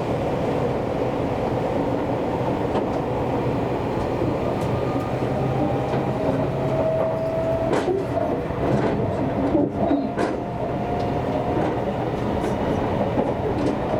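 Seibu Railway electric train running along the line: a steady rumble of wheels on rail, with a faint steady whine through the middle and a few sharp rail clacks near the middle.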